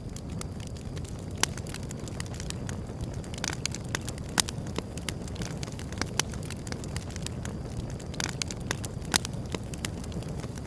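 Wood fire burning: a steady low rumble of flames with irregular sharp crackles and pops from the burning wood, a few louder snaps standing out.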